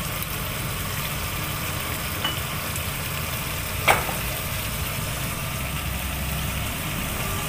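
Sambal prawns and petai cooking in a pan with faint sizzling over a steady low rumble, and one sharp tap of a utensil about four seconds in.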